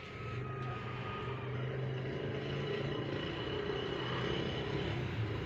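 Steady low mechanical hum with an even rumble underneath, like running machinery; no breaks or changes.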